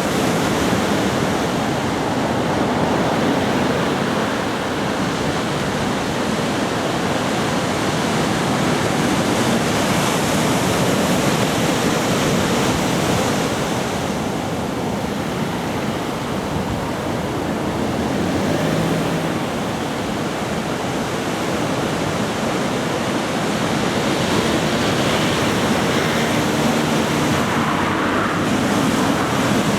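Ocean surf from a typhoon-driven swell breaking and washing onto the beach: a continuous rush of noise that swells and eases gently.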